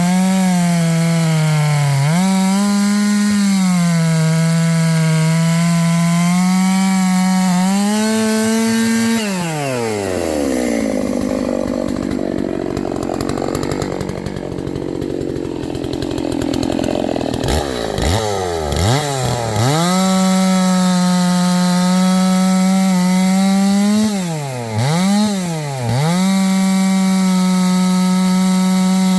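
660 two-stroke chainsaw crosscutting water oak: the engine runs at high revs, then about a third of the way in pulls down to a lower, rougher note for several seconds before revving back up with a few quick blips. It runs high again, dipping briefly once near the end; the freshly tuned saw is not lacking power.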